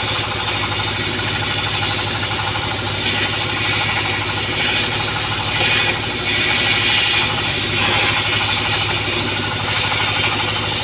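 A tugboat's diesel engine running steadily at idle, with a fast, even pulsing beat.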